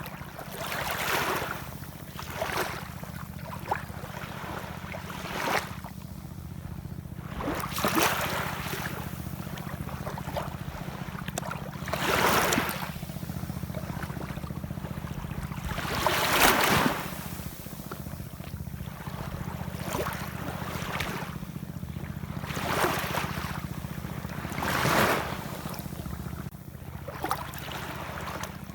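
Ocean waves washing in, one surge every two to four seconds, over a steady low rumble.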